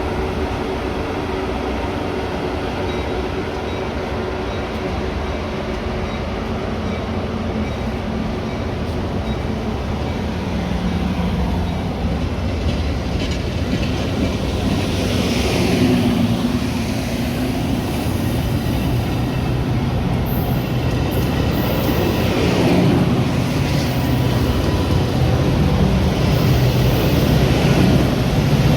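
Metra commuter train running along the track: a steady rumble of wheels and car on the rails that grows gradually louder, with brief rattles or wheel squeals a little past the middle.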